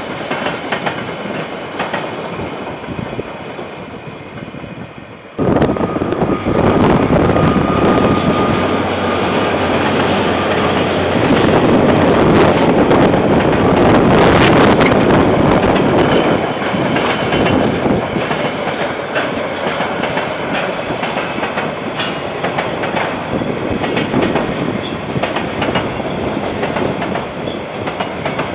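Freight train wagons rolling past on the line in a steady rumbling noise. About five seconds in the sound cuts abruptly to another, louder passing train, with a faint steady whine for a few seconds after the cut. It is loudest around the middle and eases off toward the end.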